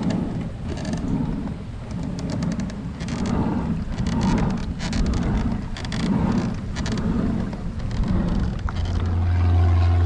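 Kayak paddle strokes about once a second, splashing through the water, with wind rumbling on the action-camera microphone. Near the end a steady low engine drone sets in.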